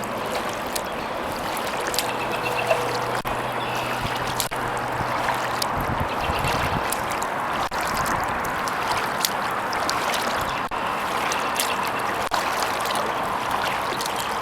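Kayak being paddled: water trickling and dripping off the paddle blades and splashing at the hull in a steady wash.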